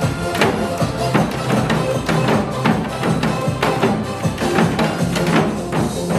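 Janggu, the Korean hourglass drum, struck in a quick rhythm of sharp beats over song music with steady held notes.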